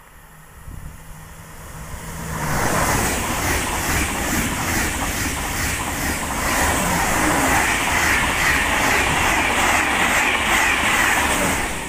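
TGV inOui high-speed train passing close by at speed: a rushing noise that builds over the first two seconds or so, then stays loud and steady, with a fast even pulse of about three beats a second running through it.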